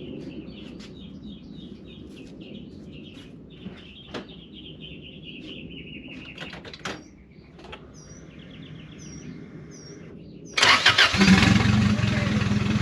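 Birds chirping faintly with a few clicks. Near the end, the turbocharged Honda H-series four-cylinder in a swapped Civic suddenly fires up and settles into a steady idle: its first successful start after the swap.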